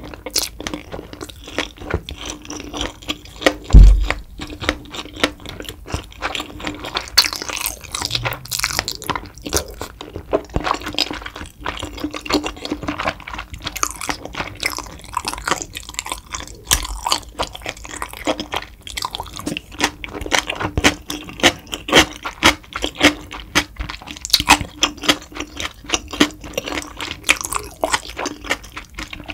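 Close-miked chewing: wet, sticky mouth sounds and irregular clicks from a person chewing food with lips closed, with one loud low thump about four seconds in.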